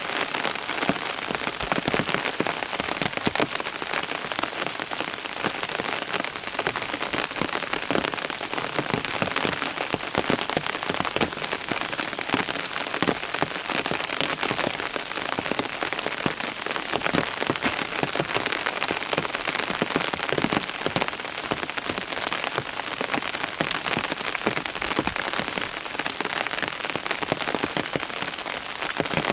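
Steady rain, with many separate drops hitting a surface.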